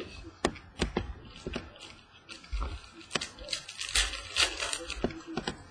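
Baseball trading cards and their packaging being handled: a string of sharp clicks and snaps, with a denser crinkly rustle about three to four and a half seconds in.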